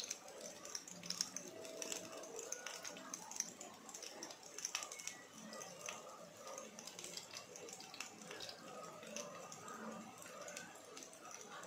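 Egg and vegetable mixture frying in oil in a non-stick pan: a faint, steady sizzle with many irregular crackling pops.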